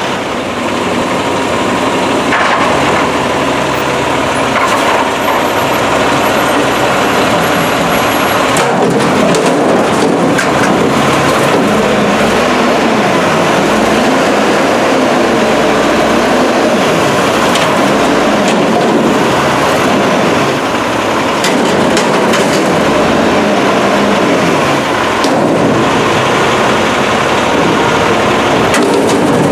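Front-loader garbage truck's diesel engine running, its pitch rising and falling as it is revved.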